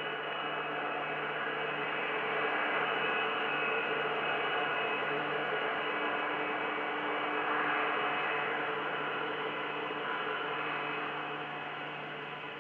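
Boeing 747-400 jet engines running with a steady whine over a broad roar, swelling a little in the middle and fading toward the end as the airliner passes.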